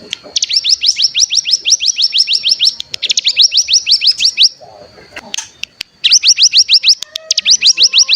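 Ciblek gunung songbird giving its rattling 'bren' trill: bouts of sharp, rapidly repeated falling chips, about seven a second, each bout lasting one to two and a half seconds with a short break in the middle. This is the lure song that keepers play to set other ciblek gunung trilling.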